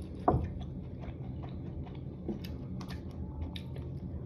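Eating sounds: quiet chewing and small mouth and utensil clicks over a steady low hum, with one short sharp sound sliding down in pitch about a third of a second in.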